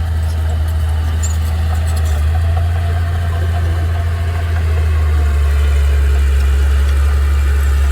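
Heavy machine engine running steadily, a deep low drone that grows slightly louder about halfway through.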